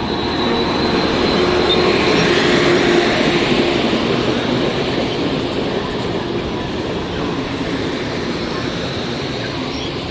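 A train rolling past at close range: a steady rumble of wheels on rail that swells about two to three seconds in and then slowly eases, with a faint, steady high-pitched tone over it.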